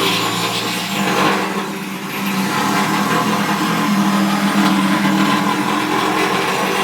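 A handheld power tool's electric motor running steadily, grinding against the sheet steel of the drum around a cut hole. It eases off briefly about two seconds in, then runs on.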